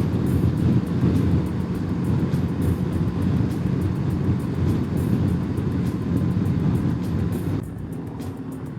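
BMW G310 GS single-cylinder motorcycle engine running at a steady road speed under heavy wind and road noise. About seven and a half seconds in, the engine and wind noise drop as the bike slows.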